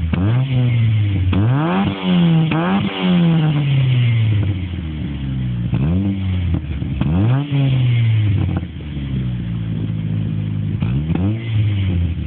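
Ford Focus 1.6 four-cylinder engine through a modified louder sport exhaust, blipped in a series of short revs that rise and fall back to idle, several in quick succession in the first few seconds and then a few more spaced seconds apart.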